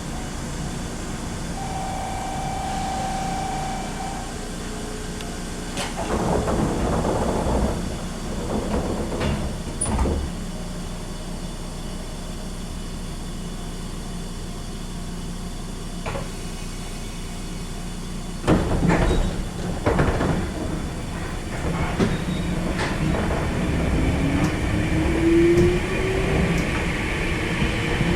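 Commuter train's sliding passenger doors working at a station stop: a steady buzzer tone for about two seconds, then rushes of air and door thuds in two bouts, the second starting suddenly. Near the end a rising motor whine as the train starts to pull away.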